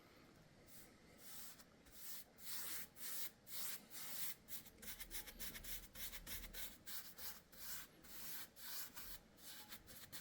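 Faint, rapid rubbing strokes of something worked by hand across a rough surface, about two to three strokes a second, sparse at first and steadier from about two seconds in.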